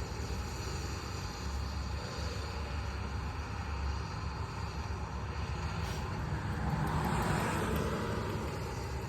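Steady road traffic noise, with a vehicle passing about seven seconds in.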